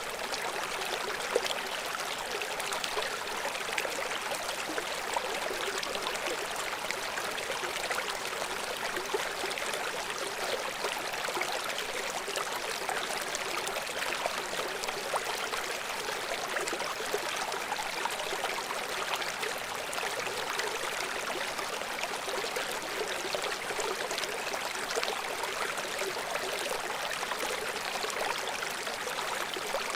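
River water rushing and splashing over rocks in a steady, unbroken flow, with small bright splashes sprinkled through it.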